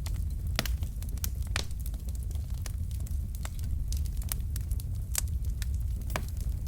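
Wood fire crackling in a fireplace: irregular sharp pops and snaps from burning logs, several a second, over a steady low rumble of flame.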